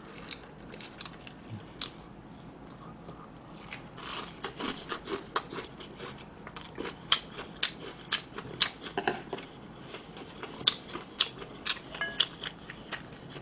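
Close-miked chewing of crunchy deep-fried breaded food, a run of irregular crisp crunches a few per second that starts about four seconds in.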